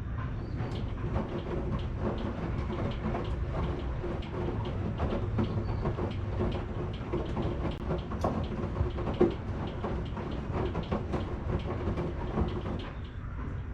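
Washing machine running, a steady low rumble and hum with frequent irregular knocks and clicks from the turning drum, one louder knock about nine seconds in.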